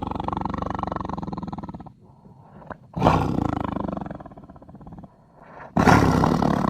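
Siberian (Amur) tiger roaring: one roar dies away about two seconds in, a second begins about three seconds in and tapers off, and a third, the loudest, starts near the end.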